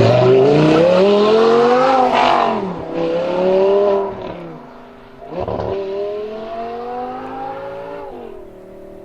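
Audi R8 V10 with a Per4mance aftermarket exhaust accelerating hard. The engine note climbs in pitch and drops at gear changes, about two seconds in and again around five seconds. It grows fainter as the car pulls away.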